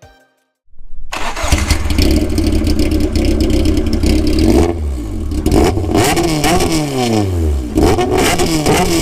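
Caterham R500 Superlight's 1.8-litre naturally aspirated Rover K-series four-cylinder engine starting less than a second in and idling loudly and steadily. From about halfway it is revved in a string of quick throttle blips, its pitch rising and falling with each one.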